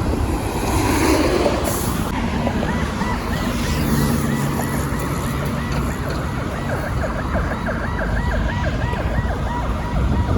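Road traffic noise with a siren yelping in the background, a fast repeated rise and fall in pitch that starts about two seconds in and fades near the end.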